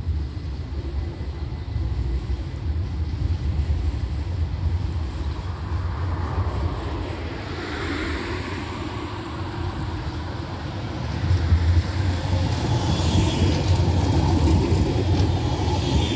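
Tram running along the rails with a steady low rumble that grows louder about eleven seconds in, with higher-pitched rail noise over it near the end.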